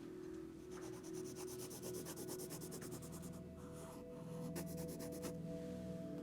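Pencil scratching on paper in quick, rapid hatching strokes, with a brief pause near the middle and another near the end.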